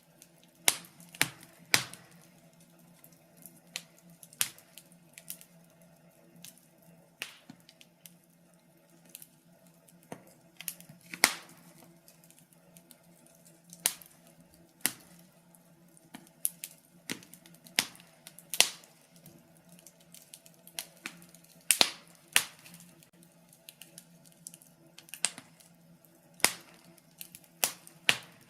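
Wood fire crackling: sharp, irregular pops and snaps of burning logs, some much louder than others, over a faint steady low hum.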